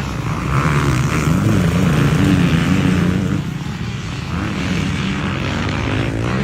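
Motocross bike engines running hard and revving, the pitch rising and falling; louder from about half a second in and easing off a little after three seconds.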